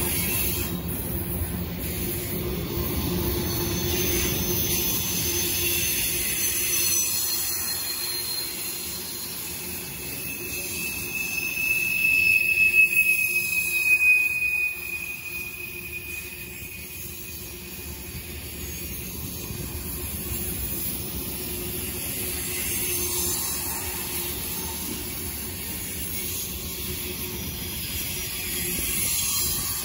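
Cars of a CSX mixed freight train (lumber flatcars, tank car, covered hoppers, boxcars) rolling past, wheels running steadily on the rails. A high wheel squeal builds and becomes the loudest sound about twelve to fourteen seconds in, then cuts off suddenly.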